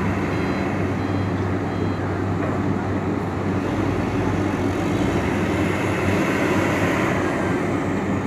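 Steady rumble of heavy truck engines running, with a constant low hum underneath. Faint short high beeps repeat during the first two seconds.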